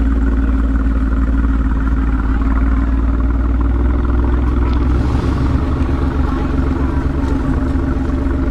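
Alfa Romeo Giulia Quadrifoglio's 2.9 V6 with a Ragazzon exhaust running steadily at low revs, its note dropping slightly about five seconds in.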